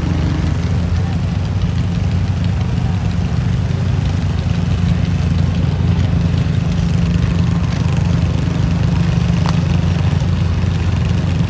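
Farm tractor engine running steadily at a constant speed with a deep, even note, as at a tractor pull.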